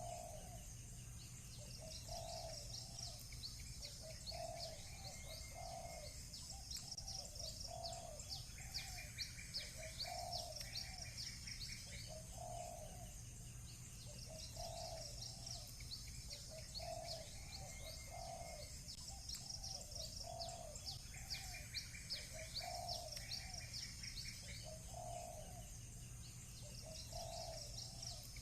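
A dove cooing over and over, about one short coo every second or so, under the high, busy chirping of small birds, with brief buzzy trills now and then.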